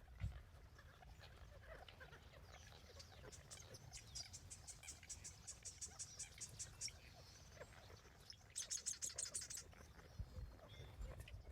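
Nuttall's woodpecker calling: a string of high, quick notes for about three and a half seconds, then a faster, louder rattle about a second long.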